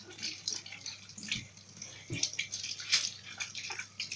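Hands scrubbing and rubbing tomatoes in a sink of water, with irregular splashes and sloshing.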